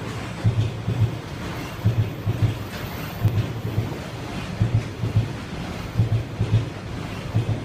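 Freight train passing, its wagons' wheels thumping over rail joints in pairs about every one and a half seconds over a steady low rumble.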